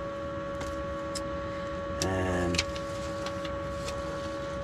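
Steady electrical hum inside a lorry cab, with scattered light clicks and a short murmured voice sound about two seconds in.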